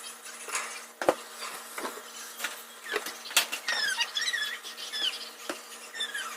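Several sharp knocks and clicks, then runs of short high squeaks that slide down and up in pitch, starting about halfway through and coming again near the end.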